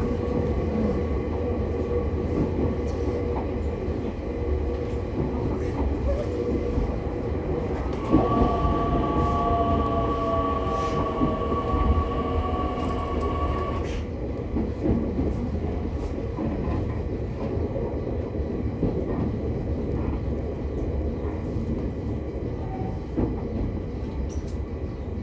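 Interior running sound of an E501 series electric train's motor car: a steady rumble of wheels on rail, with scattered rail-joint clicks. For about six seconds near the middle, a steady whine from the traction equipment joins in, with lower tones gliding down beneath it.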